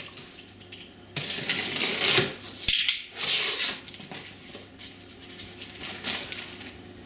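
Cardboard box being opened by hand: the cardboard and packing rustle and scrape in several short bursts, with one sharp click about halfway through.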